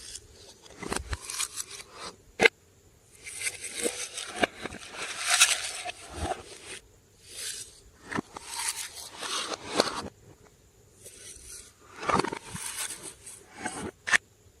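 Glossy slime being mixed and squished, giving irregular bursts of sticky crackling with sharp clicks and pops in between.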